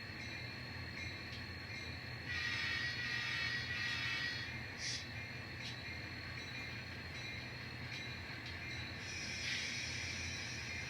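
N scale model locomotive running slowly on the layout: a steady low hum with thin high-pitched whines. It gets louder for about two seconds a couple of seconds in, and again briefly near the end.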